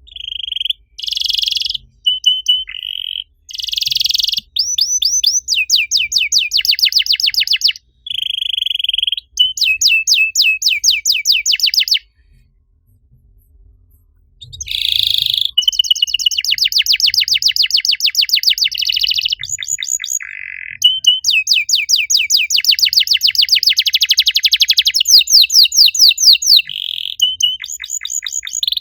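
Domestic canary singing a long song of rapid rolling trills, steady whistled notes and chirps. It pauses for about two seconds midway, then resumes with more fast trills.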